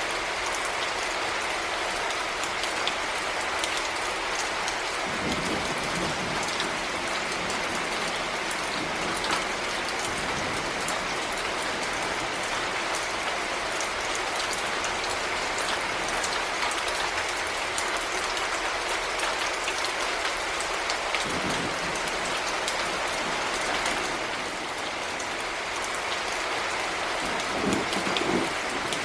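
Heavy rain falling steadily, with fine drop hits throughout and a few brief low thumps.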